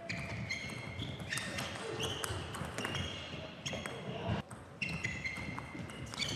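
Table tennis ball ticking and bouncing, with short high squeaks of shoes on the court floor.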